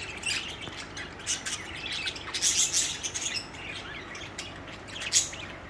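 Budgerigars chirping and chattering, a quick irregular run of short, sharp high chirps.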